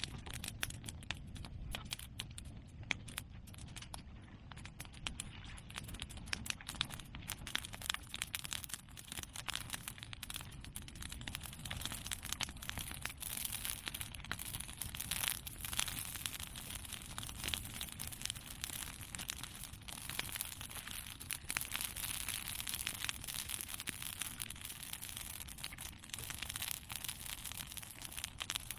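Bonfire of cut bamboo and chestnut pruning branches crackling steadily, a dense run of small pops and snaps with no large bursts.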